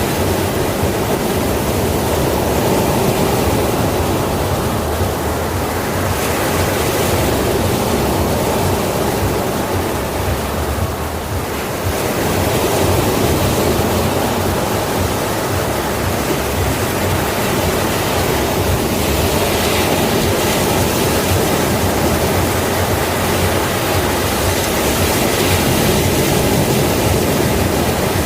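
Sea waves breaking on a shore: a continuous wash of surf that swells again every six or seven seconds, with a brief lull about eleven seconds in.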